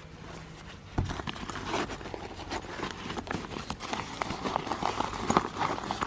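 Wood fire crackling and popping in a compact fire pit, with irregular sharp snaps, after a single knock about a second in.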